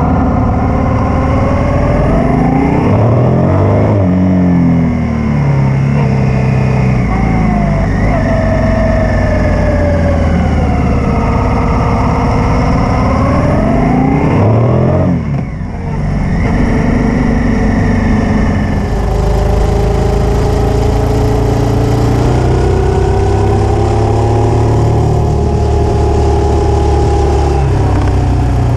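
Honda Africa Twin 750's V-twin engine heard from on the bike, its revs rising and falling repeatedly as it accelerates and slows through bends. About halfway through there is a brief drop in loudness, and after that it runs more evenly.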